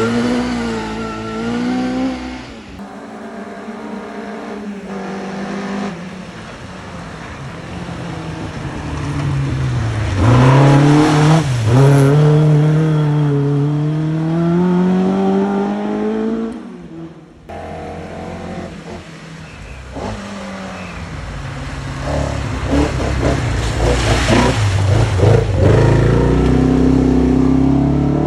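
Rally cars passing one after another at speed, engines revving up through the gears with the pitch dropping at each change and rising again, loudest as each car goes by.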